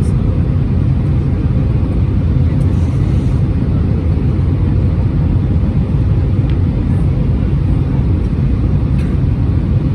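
Steady low cabin rumble of an Airbus A320 airliner, the drone of its engines and airflow, unchanging.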